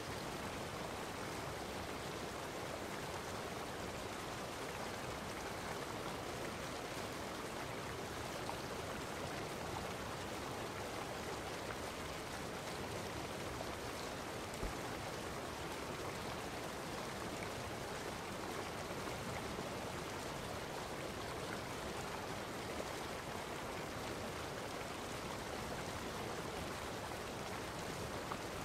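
Steady, unbroken rushing noise of running water, even throughout.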